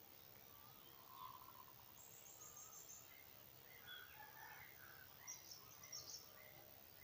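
Faint birdsong from several birds: scattered chirps and short warbled phrases, with a quick high trill about two seconds in and a few sharper high calls near the end.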